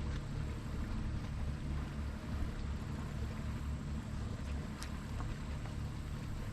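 Wind rumbling on the microphone on a kayak on open water, with a faint hiss and one small click about five seconds in.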